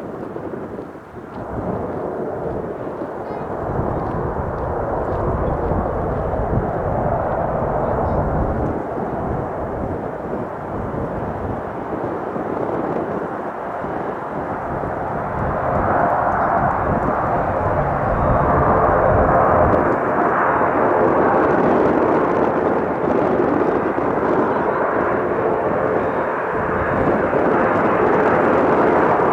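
Turboprop airliner engines and propellers, an ATR 42-600, getting louder from about halfway through as the aircraft comes closer. Wind gusts buffet the microphone.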